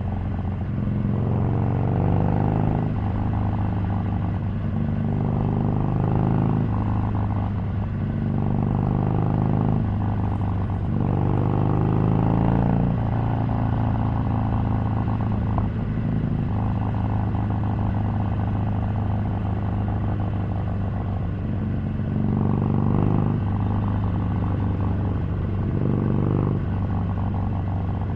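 Harley-Davidson Sportster 883's air-cooled V-twin running under way, its pitch rising and falling several times with the throttle.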